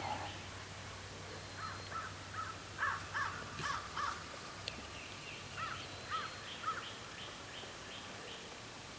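A bird calling in runs of short, arched notes, a few a second, in two groups.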